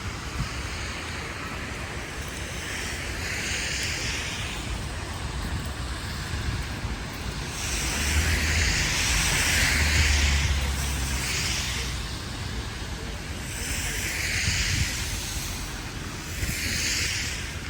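Vehicles passing on a wet, slushy city street: several swells of tyre hiss that rise and fade, over a steady low traffic rumble that is heaviest about halfway through.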